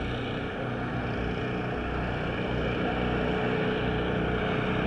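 An engine running steadily with an even low hum, growing slightly louder over the few seconds.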